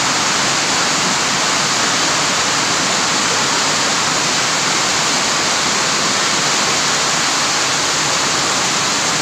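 Heavy rain pouring down in a loud, steady, even rush, a tropical downpour brought by a typhoon's low-pressure system.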